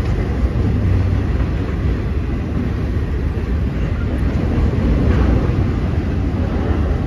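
Freight train cars rolling past, mostly enclosed autoracks: a steady low rumble of steel wheels on the rails.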